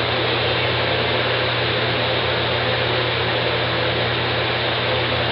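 Steady, even hiss with a constant low hum underneath: background room noise of the fan or air-conditioner kind, with no other event.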